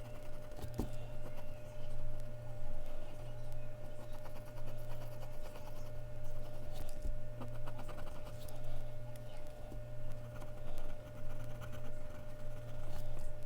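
Mechanical pencil scratching across Bristol paper in short strokes, with a few small clicks, over a steady electrical hum.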